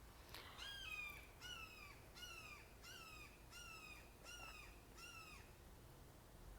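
A hawk calling faintly, a series of about seven short, clear calls that fall in pitch, repeated evenly about once every 0.7 seconds, then stopping.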